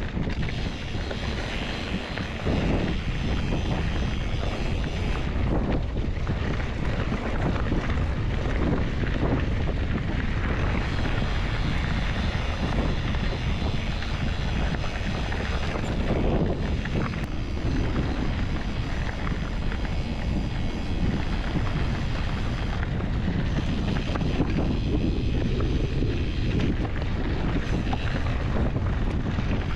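Steady rush of wind on the camera microphone while riding a mountain bike fast downhill, mixed with the bike rolling over the trail. The level swells and eases slightly.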